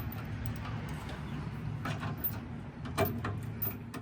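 A few short, light knocks and clinks of metal parts being handled and fitted while a sway bar is installed, over a steady low hum.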